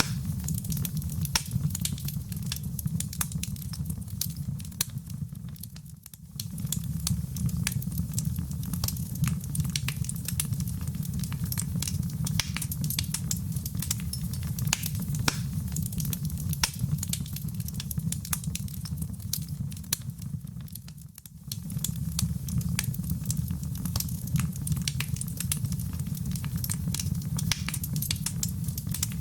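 Fireplace fire crackling, with many sharp pops and snaps over a steady low rumble. The sound dips briefly twice, about fifteen seconds apart.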